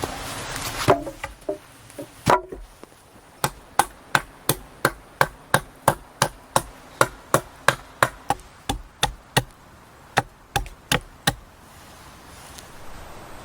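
A tool striking wood: a run of quick, evenly spaced knocks, about three a second, after two heavier blows near the start.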